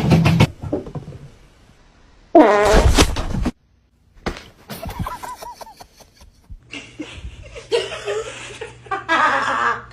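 A loud fart sound lasting about a second, with a wavering, buzzing pitch.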